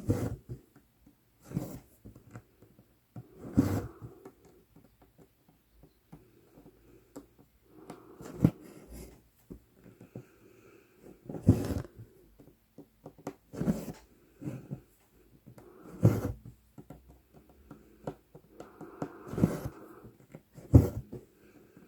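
A needle pokes through 11-count Aida cross-stitch fabric and the embroidery floss is drawn through after it. This gives a sharp pop or scratch every second or two, some followed by a short rasp of thread.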